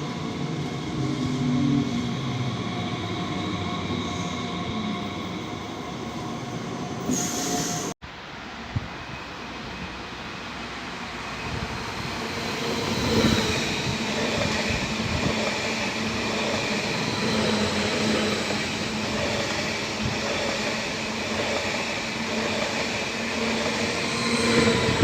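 Trains passing on the rails, with steady wheel squeal over the running noise. The sound cuts off abruptly about eight seconds in and picks up with another train passage.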